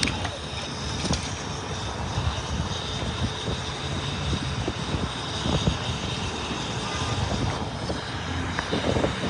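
Steady rumble of vehicle engines running, with a faint steady high whine above it and a few small knocks.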